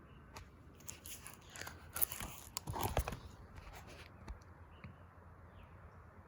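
Paper crinkling and rustling, with a cluster of sharp crackles about one to three seconds in, as a page of a book is handled and turned.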